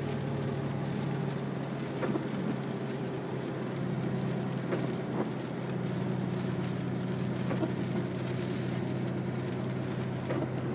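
Steady low hum of a vehicle heard from inside the cabin, with rain falling on the vehicle.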